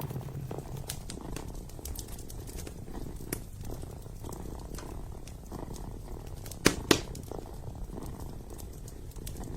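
Kitten purring steadily, with wood crackling in a burning fireplace: scattered small clicks and two loud pops in quick succession about seven seconds in.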